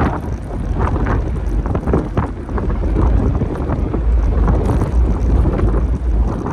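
Wind buffeting the microphone of a camera riding along on a bicycle: a steady low rumble, with irregular street noise underneath.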